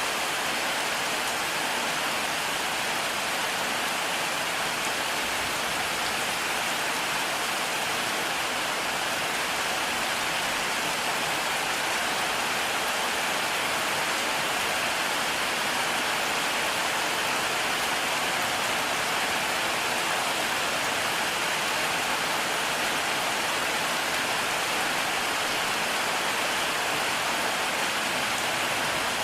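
Heavy rain falling steadily, a dense even hiss of rain with no thunder and no change in strength.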